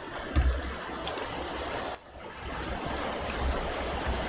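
Steady rain during a thunderstorm, an even hiss, with short low rumbles underneath and a brief dip about two seconds in.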